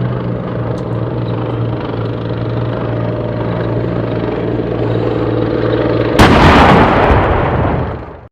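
A South Korean main battle tank's engine running steadily. About six seconds in, a sudden loud blast, the tank's main gun firing, dies away over about two seconds.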